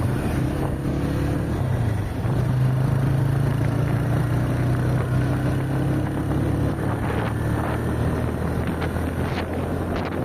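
Car driving at steady speed: a constant low engine hum over road and wind noise.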